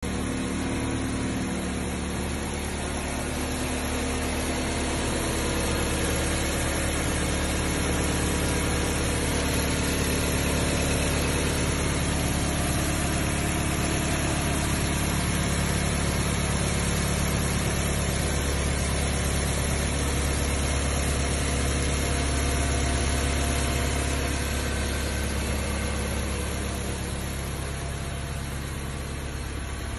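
First-generation Mazda3 car engine idling steadily.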